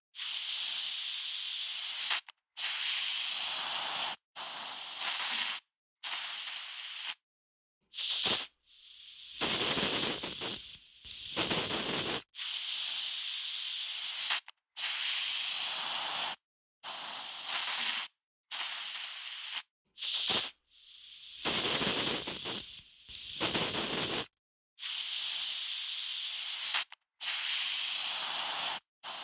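Aerosol spray can being sprayed in a series of short bursts, each a second or two of hiss that starts and stops abruptly, with brief silent gaps between. A couple of the bursts are longer and fuller.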